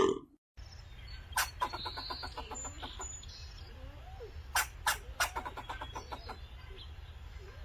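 The end of a loud animal call, then short sharp bird calls over a low steady hum, some in quick runs of clicks.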